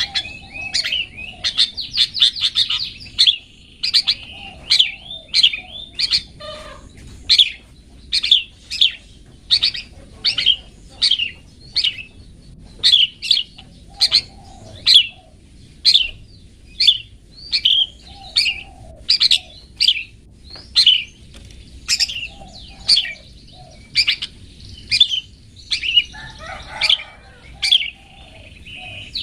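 Long-tailed shrike (cendet) calling: a rapid trill for the first few seconds, then short sharp calls repeated about once or twice a second, with fainter lower chatter now and then.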